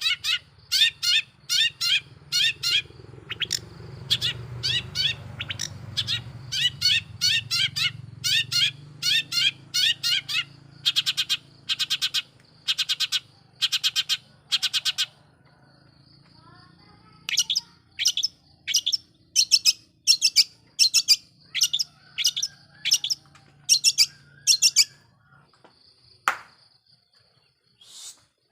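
Long-tailed shrike (cendet) singing in fast runs of short, harsh chirping notes, several a second. The runs break off for about two seconds in the middle and stop a few seconds before the end, followed by a single sharp click.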